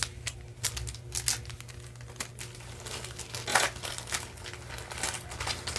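Small jewelry pieces being handled and sorted: irregular crinkling and rustling with light clicks, one louder rustle about three and a half seconds in.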